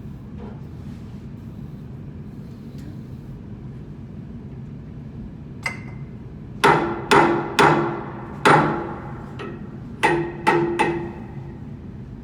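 A hammer striking metal about eight times in quick, uneven blows from about halfway in, each blow ringing briefly, as a blower wheel's bearing is worked loose or driven on its shaft. A steady low machinery hum runs beneath.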